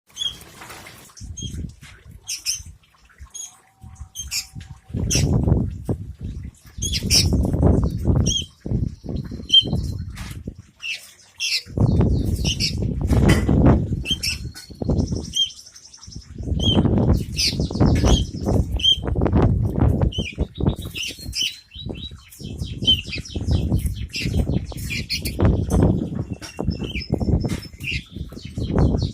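Long-tailed shrike (cendet) giving short, sharp high chirps and chattering notes throughout, between repeated loud bursts of wing flapping.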